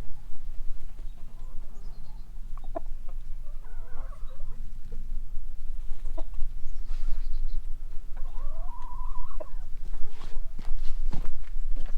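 Chickens clucking, with one hen giving a longer, drawn-out call about two-thirds of the way in, over a steady low rumble and a few sharp knocks.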